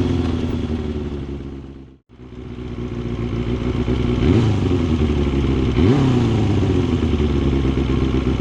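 Kawasaki Balius II's 250 cc inline-four engine running through an RPM 4-into-2-into-1 aftermarket exhaust while the bike is ridden. The sound fades out about two seconds in and fades back up. The engine pitch swings quickly twice, about halfway through and again a couple of seconds later.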